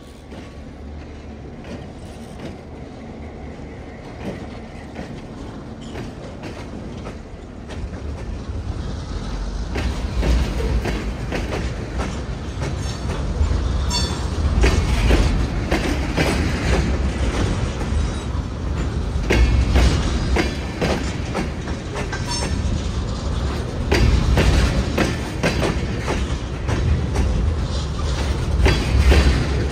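Freight train of tank cars rolling past close by, wheels clicking over the rail joints, after a low locomotive rumble in the first few seconds. It grows louder from about eight seconds in, with a short wheel squeal about fourteen seconds in.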